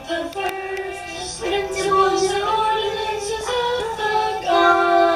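A child and a woman singing a slow church song over a musical accompaniment, the melody moving in held notes.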